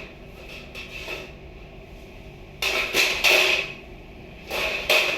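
Loud knocking and clattering of hard objects being handled, in two bursts: one about two and a half seconds in and another near the end.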